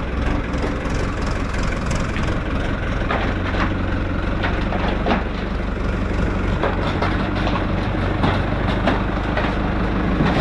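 New Holland TL90 tractor's diesel engine idling steadily, with occasional clicks and knocks over it.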